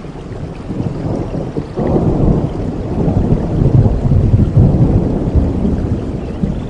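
Thunder rumbling over steady rain: a low roll that swells about two seconds in, peaks around four seconds, then slowly fades.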